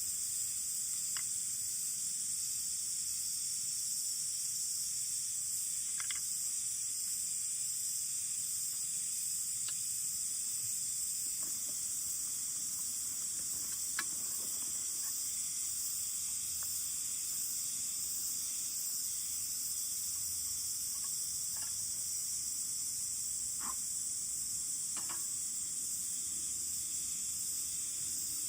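Insects chirring steadily in a high, unbroken drone, with a few faint, sharp crackles from a wood campfire scattered through it.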